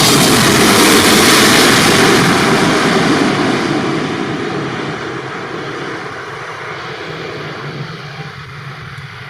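Jet engines of a China Airlines Boeing 777F freighter passing low overhead on landing approach. The engine noise is loudest in the first two seconds, then fades steadily as the aircraft moves away toward the runway.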